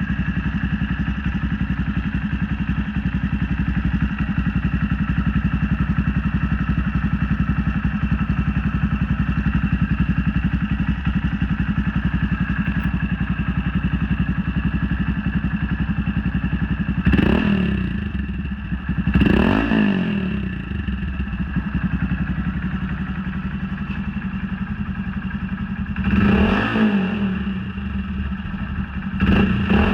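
Honda Monkey 125's single-cylinder four-stroke engine idling through a Black Widow aftermarket exhaust with its baffle fitted, blipped four times in short revs, the last near the end.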